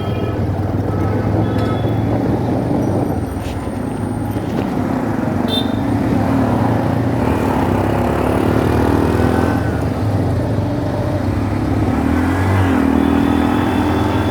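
Motorcycle engine running on the road, with the pitch rising twice as it accelerates.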